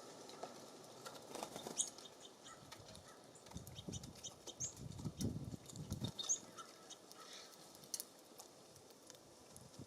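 Small birds at a feeder: scattered short, high chirps and sharp clicking taps, with a low fluttering rumble in the middle, about three and a half to six seconds in.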